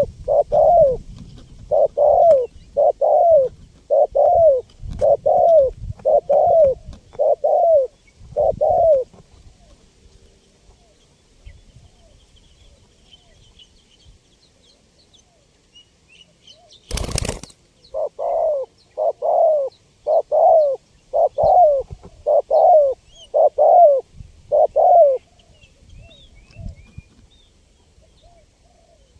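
Spotted dove cooing in two runs of about eight or nine notes each, at roughly one and a half notes a second, with a pause of several seconds between them. A single short thud or crackle comes just before the second run, and faint small-bird chirps sit behind.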